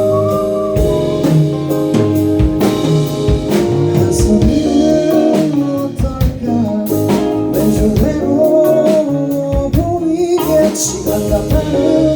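Live band playing an instrumental passage mid-song, with a drum kit keeping a steady beat under guitar and keyboard and a melodic lead line.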